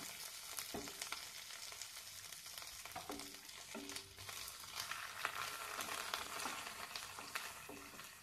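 Chopped onion, green chillies and curry leaves sizzling in hot oil in a nonstick kadhai, stirred with a spatula that scrapes and taps against the pan again and again.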